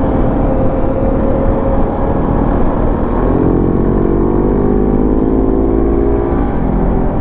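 Motorcycle engine pulling under acceleration, its pitch rising steadily for a few seconds and then dropping off near the end, over steady wind and road rush on a riding microphone.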